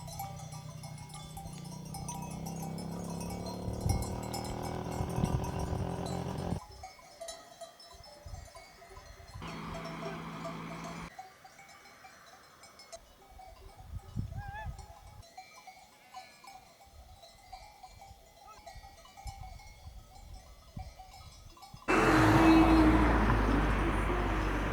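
Bells hung on a flock of sheep clanking and ringing as the animals move, with sheep bleating. The sound changes abruptly several times, and a loud rushing noise comes in suddenly near the end.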